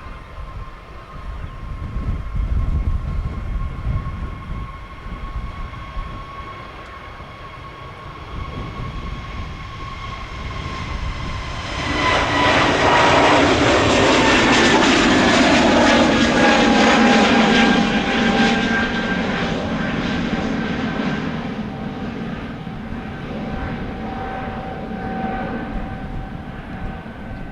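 Jet airliner engines whining, then swelling into a loud rushing roar for several seconds as the aircraft passes, the whine slowly falling in pitch as it goes by and fades. Low wind rumble on the microphone early on.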